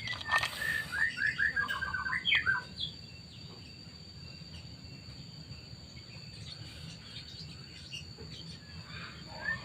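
Small birds chirping, with a quick run of short falling notes in the first few seconds, then a quieter stretch before the chirping starts again near the end.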